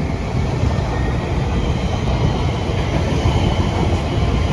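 Class 345 Elizabeth line electric train running past at close range: a steady, loud rumble of wheels on rail with a lighter hiss above it.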